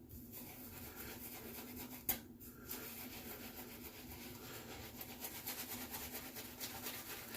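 Razorock Gamechanger .84 safety razor with a new Polsilver blade scraping through lathered beard stubble in quick repeated strokes, a dry rasping scratch, with one sharp click about two seconds in.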